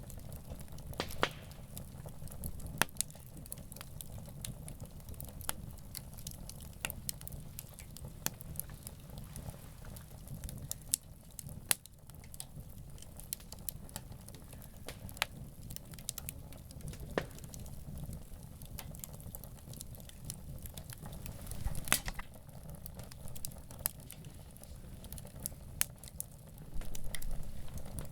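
Campfire burning with a steady low rumble and irregular crackles and sharp pops, one louder pop about two-thirds of the way in and a brief louder stretch near the end.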